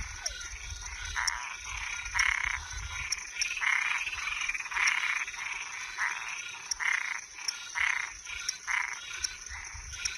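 Chorus of frogs and treefrogs calling, one rasping call after another, each under a second long and overlapping irregularly. A steady high insect trill, likely crickets, runs underneath.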